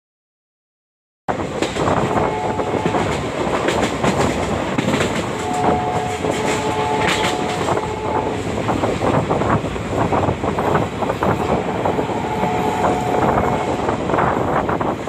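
Passenger train running at speed, heard from an open doorway: the wheels clatter over the rail joints under a steady rush of running noise. The locomotive's multi-tone horn sounds three times, the longest blast about six seconds in. The first second is dead silence before the train noise cuts in.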